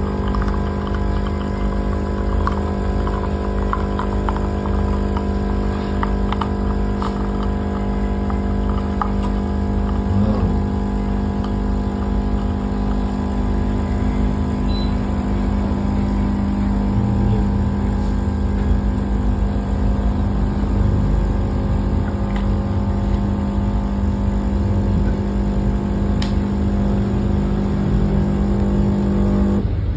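A coffee machine running with a steady mechanical hum and rumble that holds one pitch, then cuts off just before the end.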